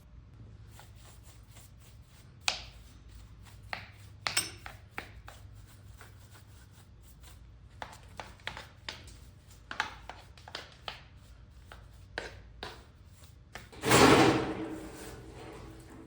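Scattered light knocks and clinks of metal machine-tool parts being handled on a shop table, with a louder scrape or slide of a heavy piece about 14 seconds in.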